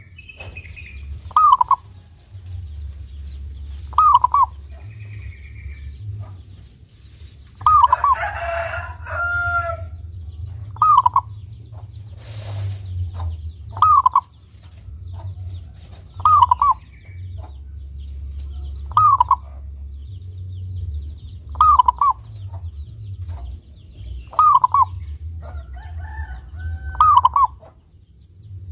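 Zebra dove (perkutut) cooing: short curved phrases repeated evenly about every two and a half seconds, over a steady low rumble. A longer, louder bird call breaks in about eight seconds in and again near the end.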